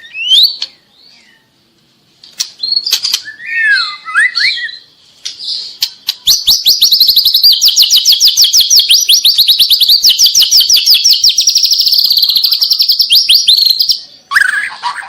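Juvenile white-rumped shama singing loudly: a few whistled and gliding notes, then from about six seconds in a fast, even trill of about eight notes a second held for some eight seconds, followed by another short phrase near the end.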